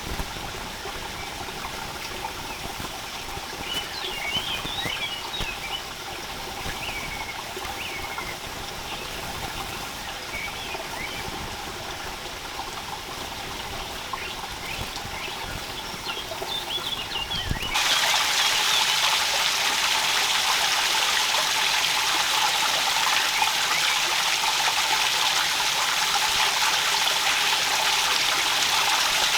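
Steady sound of running water, with small birds chirping now and then. About two-thirds of the way through it cuts abruptly to a louder, even rushing hiss of water.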